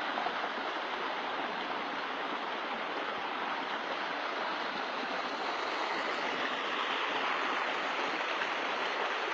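River water rushing and flowing in a steady, even stream.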